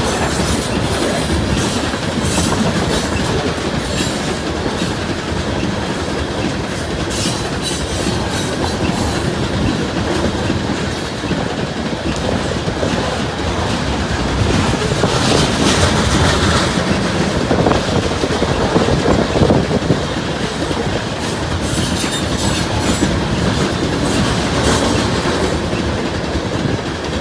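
BNSF coal train rolling past, its steel wheels clacking over the rail joints with occasional high wheel squeal. It grows louder for a few seconds around the middle.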